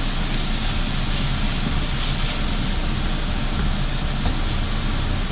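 Kitchen fan running steadily, over ham and vegetables sizzling in oil in a frying pan.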